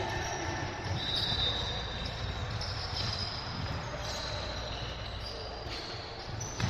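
Basketball being dribbled on a gym court during a game, echoing in the hall, with voices in the background.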